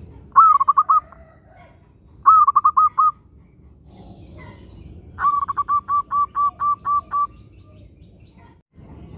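Zebra dove (perkutut) cooing in quick staccato phrases. Two short bursts of rapid notes are followed by a longer run of about ten evenly spaced notes.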